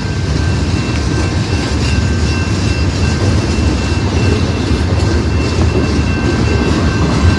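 Train cars rolling past on the rails: a steady loud rumble of wheels on track, with two thin, steady high tones held above it.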